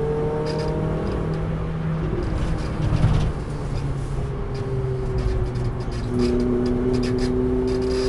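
Renault Clio RS 200's four-cylinder engine, heard from inside the cabin while driven on track. The note climbs at first, there is a brief thump and the engine note breaks up about three seconds in, and from about six seconds it comes back louder and rises again. Tyre and wind noise run underneath.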